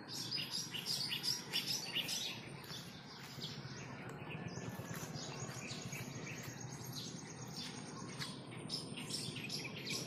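Wild birds chirping and calling over and over, short high chirps in quick succession, with a thin, steady high note held for a few seconds in the middle.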